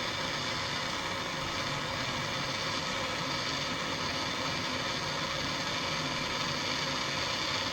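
A machine running steadily, with an even, unbroken noise that cuts off abruptly at the end.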